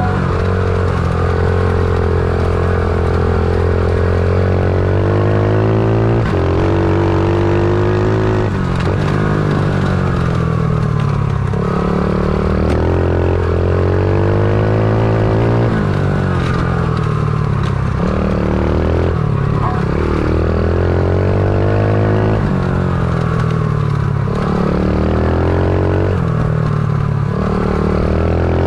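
Stomp pit bike's small single-cylinder four-stroke engine being ridden hard, its pitch repeatedly climbing under throttle and dropping off every few seconds as the rider revs, shifts and backs off.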